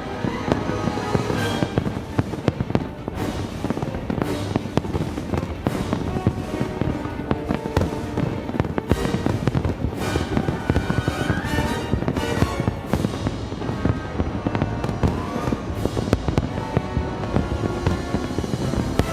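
Fireworks finale: a dense, continuous barrage of aerial shell bursts and crackle, overlaid on a broadcast music soundtrack.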